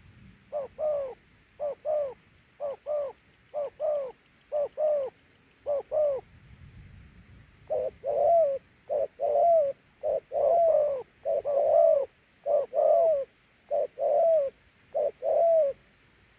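Spotted dove cooing its 'gù' coo: a run of two-note coos, about one pair a second. After a short break about seven seconds in, the coos come back fuller and longer.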